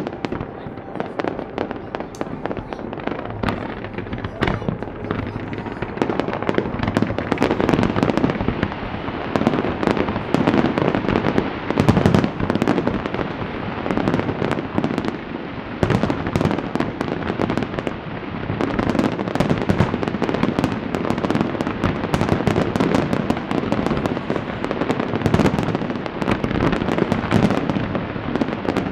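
Fireworks display: many aerial shells bursting in quick succession, a dense continuous crackling and popping with deeper booms swelling every few seconds.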